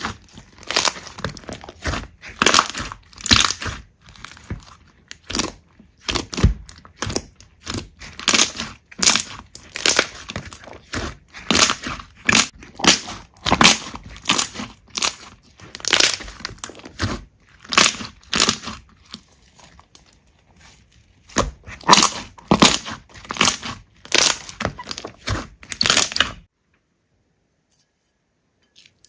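Hands squeezing and pressing slime, a dense run of sharp crackles, clicks and crunches. The sound cuts off to dead silence a few seconds before the end.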